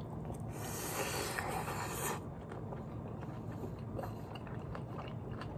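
A person chewing a mouthful of rice with kimchi close to the microphone: soft wet mouth clicks and light chewing noises, a little fuller in the first two seconds.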